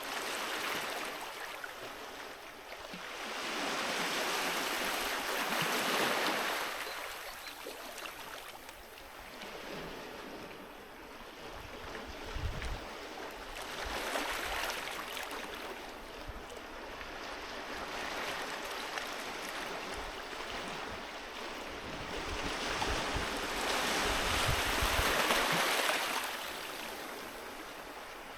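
Sea waves washing onto the shore. Each surge of surf hiss swells and falls away over a few seconds, and the biggest come about four to six seconds in and again near the end.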